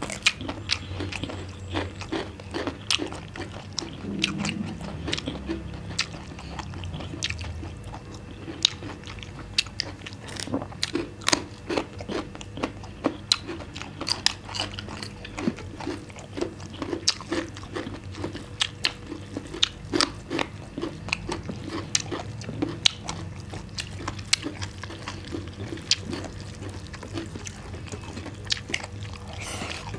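Close-up eating sounds: crisp bites and crunchy chewing of raw cucumber and carrot slices, many sharp crunches in an irregular run.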